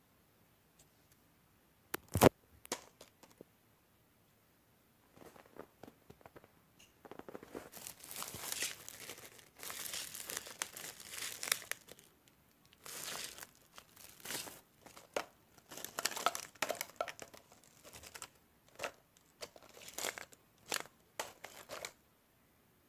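Irregular crinkling and crackling handling sounds that come in uneven clusters, with a single sharp knock about two seconds in.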